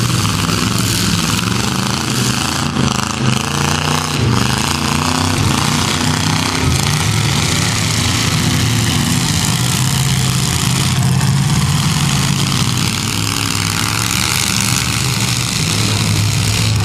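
Demolition derby cars' engines running hard and revving as the cars shove against each other in the mud.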